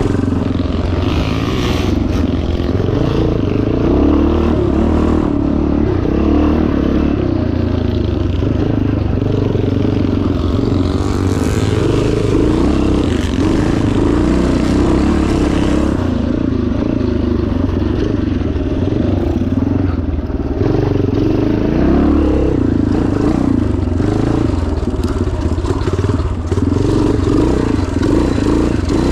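1977 Yamaha TT500's four-stroke single-cylinder engine running continuously and loud as the motorcycle is ridden off-road, with clattering from the bike over rough ground.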